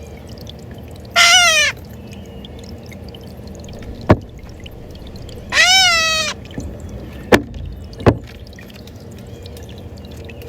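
A bird's loud call, given twice about four seconds apart, each call about half a second long and falling in pitch at the end. Three sharp clicks fall between and after the calls, over a steady low background noise.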